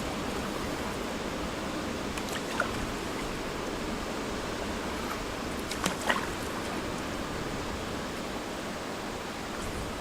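Steady rush of river current flowing past a canoe, with a few brief sharp sounds about two and a half seconds in and again around six seconds in.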